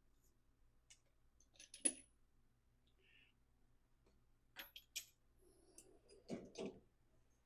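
Scattered clicks and light knocks of small metal parts and tools being handled: a sharp metallic click about two seconds in, two more clicks near five seconds, and a couple of duller knocks a little later.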